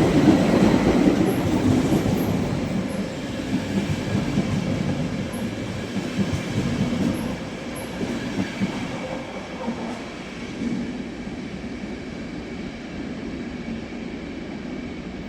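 A train running on the tracks, its rumble loud at first and fading steadily as it moves away.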